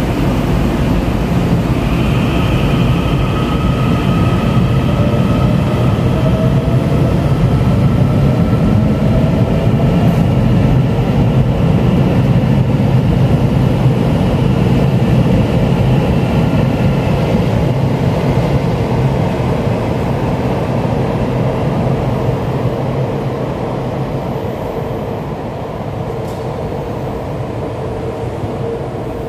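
Puyuma express TEMU2000 tilting electric multiple unit running along the platform: a low rumble under a high electric whine, with one tone gliding upward in pitch. The whine and rumble fade over the last several seconds.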